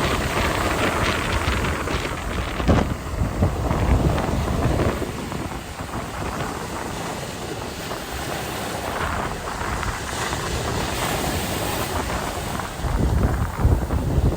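Wind buffeting the microphone over the wash of sea waves, with heavier gusts about three to five seconds in and again near the end.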